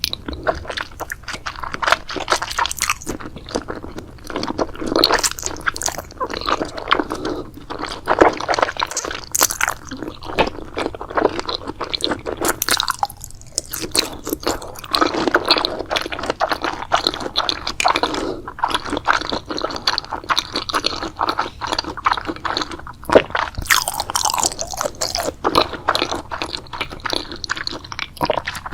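Close-miked eating: continuous biting and chewing with crunchy, crackly and wet squishy mouth sounds.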